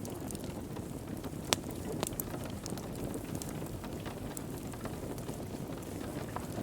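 Wood fire burning in a fireplace: a steady low rumble with scattered crackles and pops, one sharp pop standing out about a second and a half in.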